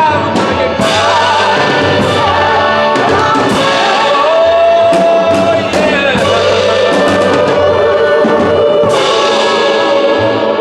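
Voices singing together over instrumental backing, with scattered percussion hits and one note held out about four seconds in.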